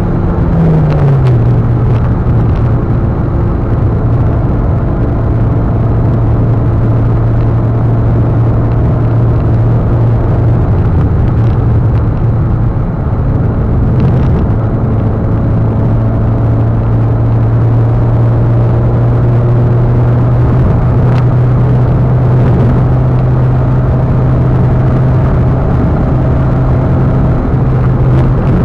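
Mitsubishi Lancer Evolution's turbocharged four-cylinder engine running under light load at cruising speed, heard from inside the cabin with steady road and tyre noise. The engine note drops in pitch about a second in, then holds steady.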